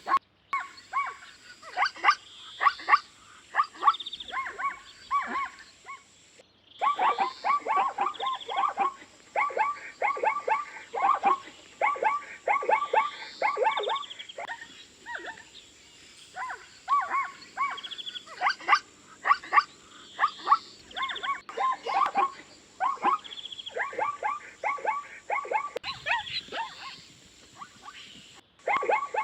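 Zebra calling: bouts of short, yelping bark-like calls in quick succession, broken by brief pauses.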